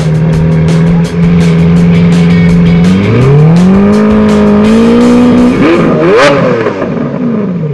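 Vehicle engine running at a steady pitch, revving up about three seconds in, wavering up and down near six seconds, then dropping back near the end.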